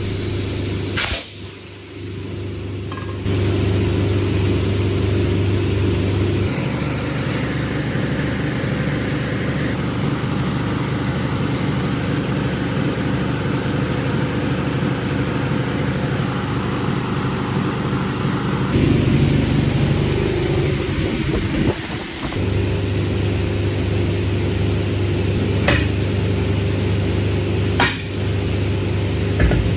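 Heavy truck engine running steadily under way, in several short stretches with sudden changes in tone between them.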